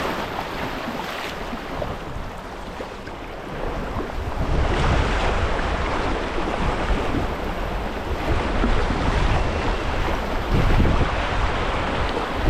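Wind buffeting the microphone over the wash of moving water, gusting harder about four and a half seconds in.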